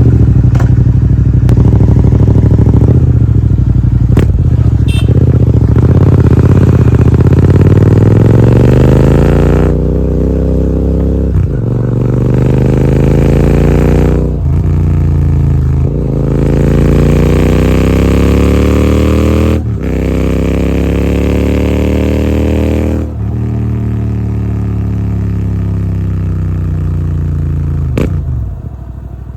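Royal Enfield Continental GT 650's 648 cc parallel-twin running through aftermarket AEW 103 megaphone silencers while riding: the engine pulls up through the gears, rising in pitch, with three short breaks for gear changes, then eases off near the end.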